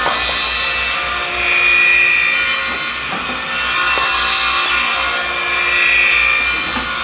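Stringer trim saw's four circular blades running with a high whine while crosscutting wooden pallet stringers into repair blocks. The cutting noise swells and eases several times, roughly every two seconds, as pieces pass through the blades.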